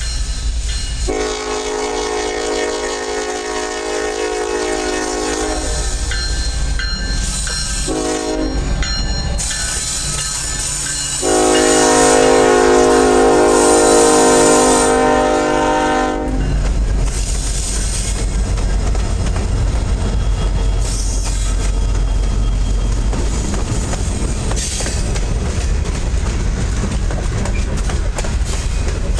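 A GE ES44AC diesel locomotive's horn sounds a long blast, a short one and another long one, the closing blasts of a grade-crossing signal as the freight train approaches. The lead locomotives then pass close with a low engine rumble, and the freight cars follow with the clickety-clack of wheels on the rails.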